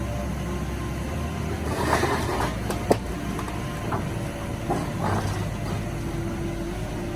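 A heavy machine's engine running steadily, with bursts of rough noise about two and five seconds in and one sharp snap near three seconds.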